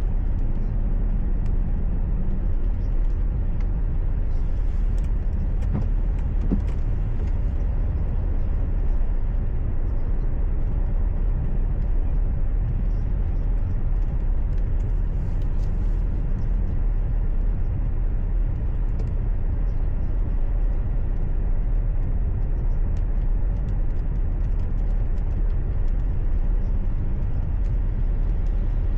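Steady low rumble of a car's engine and road noise, picked up by the car's dashcam, with faint scattered ticks.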